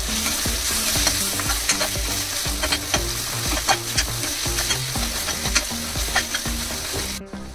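Onion-tomato masala with ground spices sizzling in hot oil in a pan while being stirred, the spoon scraping and clicking against the pan: the spices being fried (bhuna) in the base. The sizzle breaks off briefly about seven seconds in.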